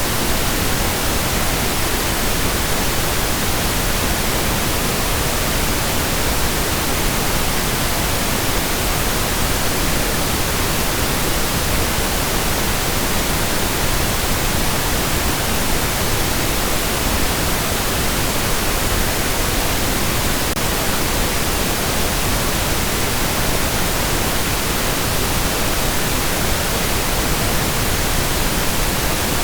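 Steady pink noise: an even, continuous hiss spread across the whole range, without any change.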